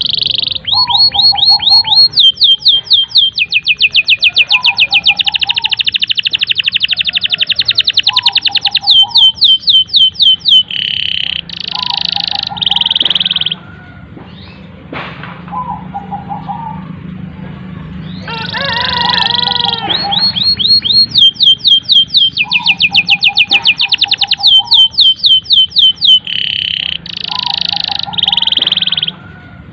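Domestic canary singing a long, loud song of fast trills and rolls, rapid runs of repeated high notes. It comes in two long bouts with a short lull in the middle.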